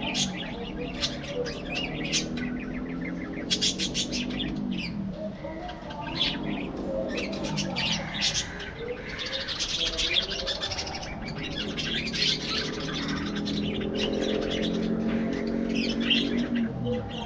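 Flock of budgerigars chirping and chattering, a dense run of short, sharp calls.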